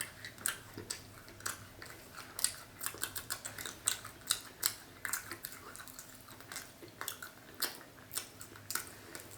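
Close-miked chewing of dry, crumbly cake: irregular crunchy clicks and smacks, a few a second, with a faint steady hum beneath.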